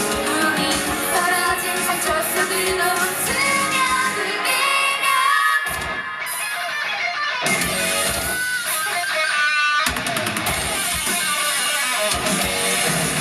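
Live rock band music: electric guitar with singing. The bass and drums drop out for a couple of seconds about halfway through, then come back in.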